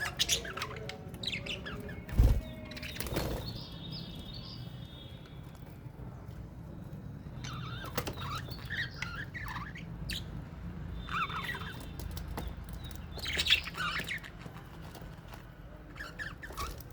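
Flock of caged budgies and lovebirds chirping and chattering in short, repeated calls throughout. A single loud thump comes about two seconds in.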